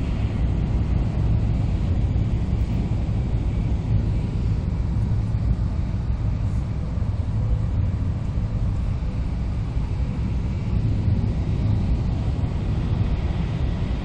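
Cabin noise inside an N700A Shinkansen passenger car running at speed: a steady low rumble from the wheels and running gear.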